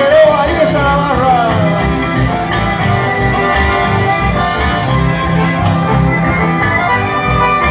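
Live chamamé band playing an instrumental passage led by accordion, with guitar over a steady bass beat. A shouted voice trails off in the first second or so.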